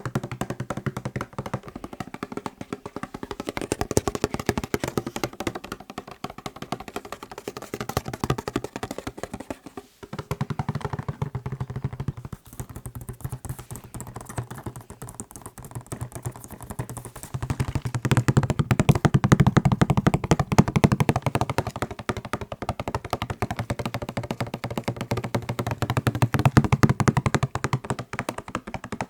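Fast tapping on macarons: a dense, rapid run of light taps with brief pauses about ten and twelve seconds in. From about eighteen seconds in the taps are louder and fuller.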